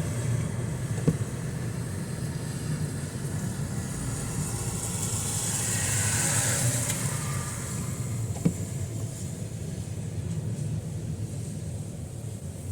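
Road traffic on a rain-soaked street: a steady low engine rumble, with the tyre hiss of a vehicle swelling and fading as it passes through the wet about halfway through. Two short knocks, one about a second in and one about two-thirds of the way through.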